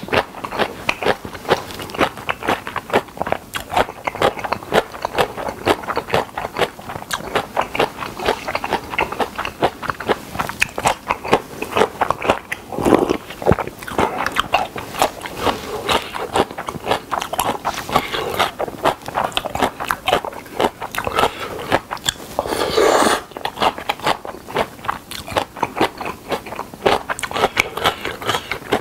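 Close-miked mouth chewing on spicy whelk and somen noodle salad: a dense, rapid run of wet chewing clicks and bites. Two longer, louder sounds come about 13 and 23 seconds in.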